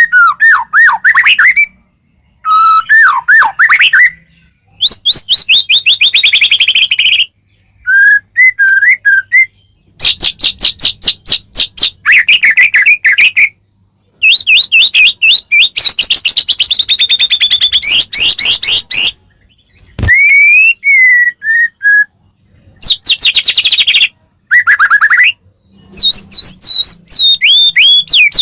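White-rumped shama (murai batu) song, as used in a bird-training master recording: loud, varied phrases of clear whistles, rising and falling sweeps and rapid trills, each a second or two long with short pauses between.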